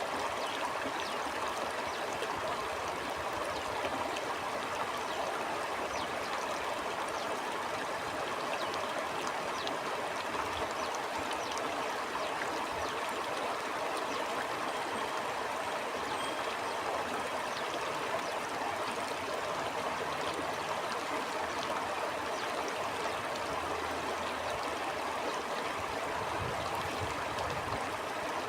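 Stream water flowing and babbling steadily, a continuous rushing with fine bubbling and splashing through it.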